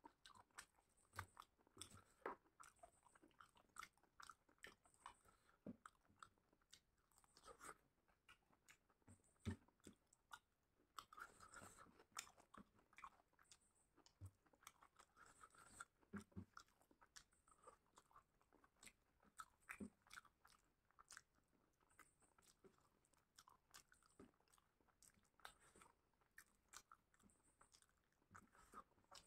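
Close-miked eating sounds of a man eating chicken curry and egg with his hand: many short, wet clicks and smacks of chewing and of fingers working the food on the plate, quiet between the strokes.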